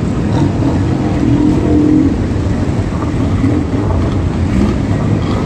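Car engines running with a loud, low exhaust rumble. A single engine note stands out briefly about a second and a half in.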